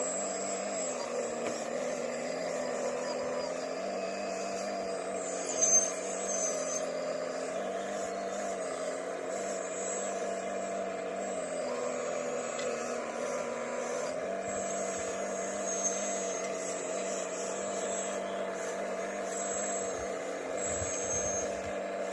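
Diesel engine of heavy earthmoving machinery running steadily under varying load, its pitch shifting slightly now and then. A brief sharp, high-pitched sound stands out about six seconds in.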